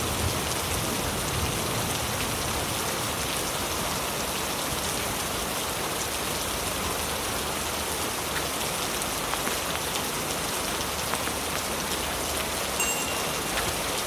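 Heavy rain falling steadily on leaves, a dense, even hiss with individual drops pattering through it.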